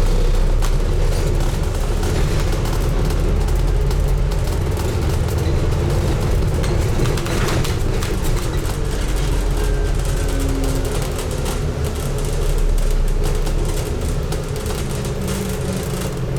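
Steady running sound of a Scania N250UD double-decker bus on the move, heard from inside: a low engine and driveline rumble with road noise and scattered small clicks and rattles.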